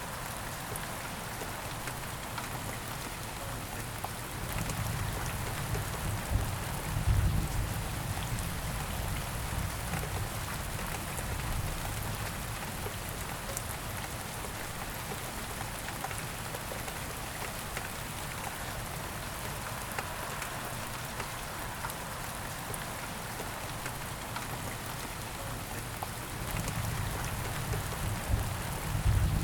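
Steady rain falling, a dense patter of drops. A low rumble swells twice, about seven seconds in and near the end.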